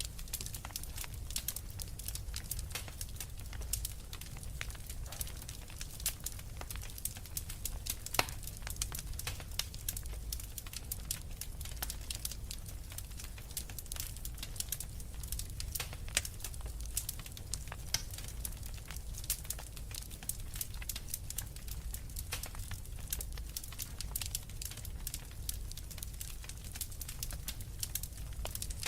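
Wood fire burning in a fireplace: logs crackling with a dense run of small pops and snaps over a low steady rumble of the flames, with a sharper pop about eight seconds in.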